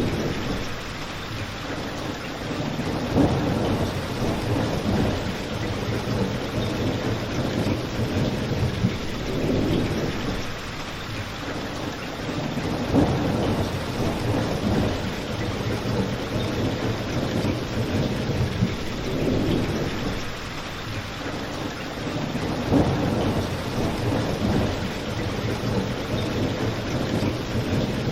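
Steady rain falling, an even hiss, with low rumbling swells every few seconds and a few brief sharp peaks.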